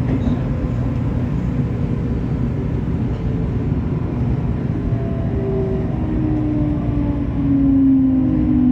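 JR Kyushu 813 series electric train running on the rails, with a steady low rumble. From about halfway through, the traction motors' whine falls in pitch as the train slows.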